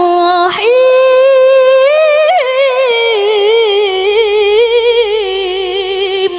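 A woman's voice in melodic Qur'an recitation (tilawah), drawing out long ornamented notes with a quick vibrato-like waver. About half a second in there is a brief break, then the voice leaps to a high held note and slowly winds back down.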